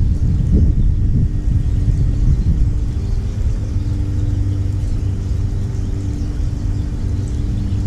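A low rumble with a steady engine hum that sets in about a second in, like a motor vehicle running nearby.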